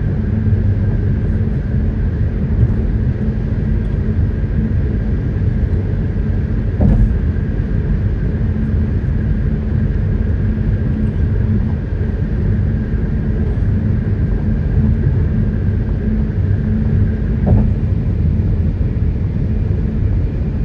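Steady road and engine rumble of a vehicle driving, heard inside the cabin, with two brief thumps about a third of the way in and again near the end.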